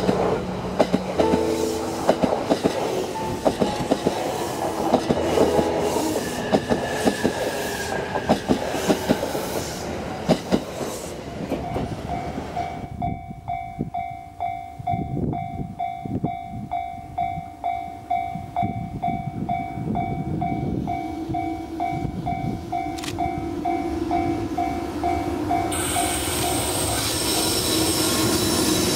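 A train runs past with the clickety-clack of wheels over rail joints. From a little before halfway, a repeated electronic ding of a level-crossing warning bell rings about twice a second. Near the end, another train comes through with a loud rushing noise.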